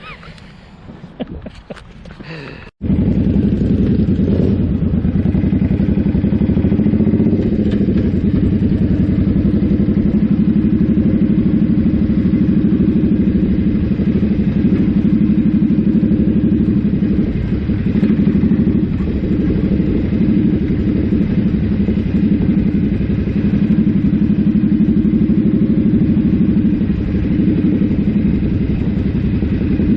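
Suzuki Boulevard C50 V-twin motorcycle engine running steadily while under way, starting abruptly about three seconds in after a few faint clattering knocks.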